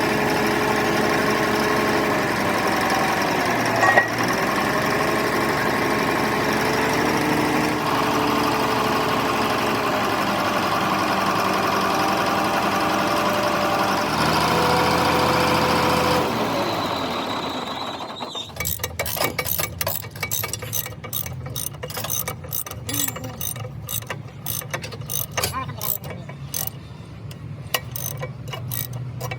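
A motor-driven machine runs steadily for about sixteen seconds, then winds down and stops. A quick, irregular series of sharp metallic clicks and ticks follows.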